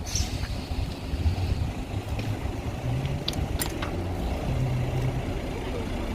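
Engine of a vintage bus running steadily with a low hum, and a few sharp clicks about three and a half seconds in.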